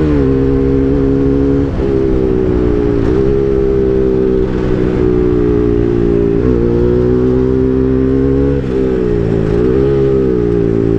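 Bajaj NS200's single-cylinder engine running loud through an Akrapovic full-system exhaust under throttle while riding. The note holds steady for stretches and briefly dips and climbs back several times.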